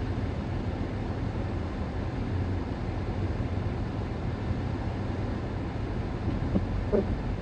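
Strong wind rushing over the microphone as a steady low rumble.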